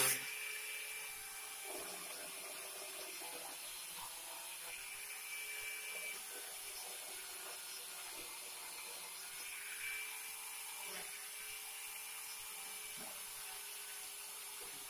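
Angle grinder fitted with a mini chainsaw attachment, running steadily with a high-pitched whine.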